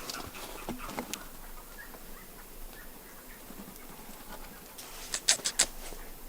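Gray jays calling with faint, short whistled notes. About five seconds in comes a quick run of sharp clicks, the loudest thing heard.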